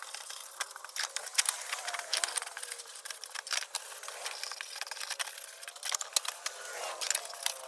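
Wire brush scrubbing the metal body of a Perfection No. 530 kerosene heater, a run of irregular scratching strokes.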